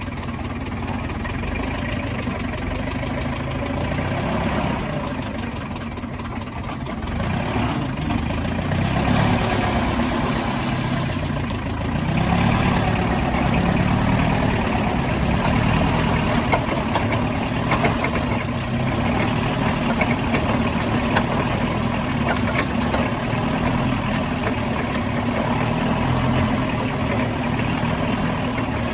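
Truck engine running steadily, a little louder from about eight seconds in and again from about twelve seconds in.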